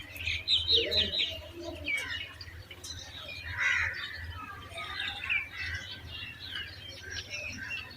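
Squeaky, high-pitched chirping from young pigeons, in quick runs of short notes that are loudest in the first second and then come in scattered bursts. A steady low hum sits underneath.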